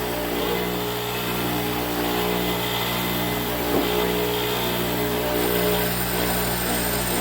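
Grinder motor running steadily, with a shifting hiss of iron being ground against the wheel for a spark test. The piece being ground is a chunk of smelted bloom iron whose sparks mark it as low-grade, mild steel.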